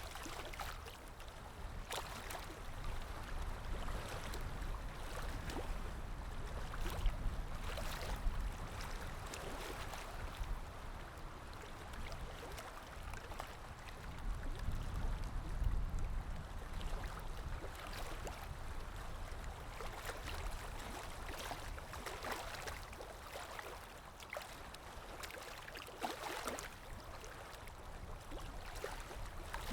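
River water gently rippling and lapping, with a low rumble underneath that swells twice and a few faint ticks or small splashes.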